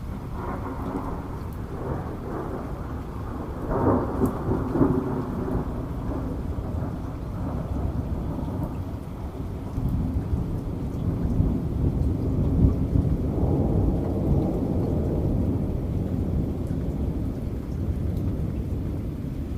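Thunder rumbling over steady rain, the low rolling rumble swelling about four seconds in and again in the middle.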